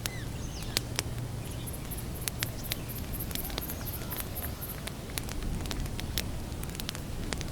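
Wood campfire crackling, with sharp irregular pops over a low rumble of burning. Faint bird chirps come and go, and a rapid high-pitched trill starts about two and a half seconds in and stops about two seconds later.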